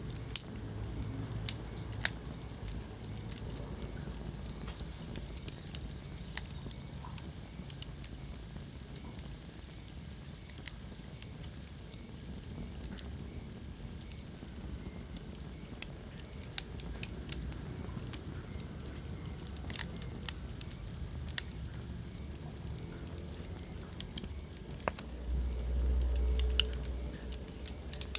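Wood fire burning in a fireplace, crackling with irregular sharp pops and snaps over a steady low rumble of flame. Near the end the low rumble swells louder for about two seconds.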